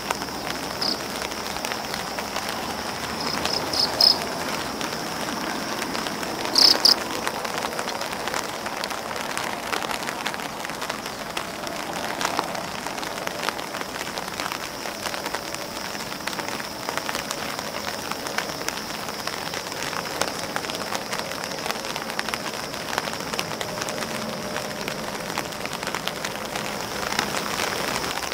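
Rain falling on grass leaves and an umbrella: a steady patter of many small drop hits, with a few brief louder bursts about four and seven seconds in.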